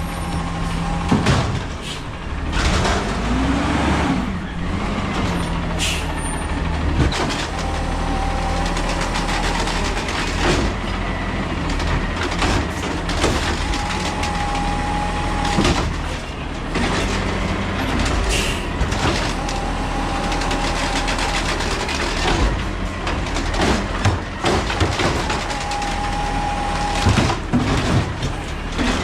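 Peterbilt 320 garbage truck with an Amrep automated side-loader body running while it works, its engine revving up for the hydraulics, with repeated clanks and bangs. A short steady tone sounds about every six seconds, four times.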